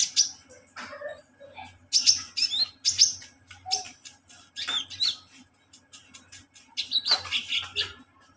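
Kolibri ninja sunbird singing: quick bursts of high, sharp chirps and short twittering trills, several clusters with brief pauses between them.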